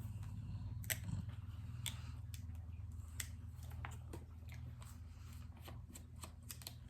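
Scattered small clicks and taps of objects being handled, over a steady low hum.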